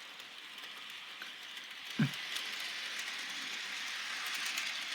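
Bachmann HO-scale model engine and its wagons running along the track: a steady rattle and hiss of small wheels on the rails that slowly grows louder, with one short low thump about two seconds in.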